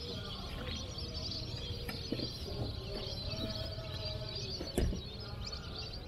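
Many small birds chirping and calling at once, with a single knock about five seconds in.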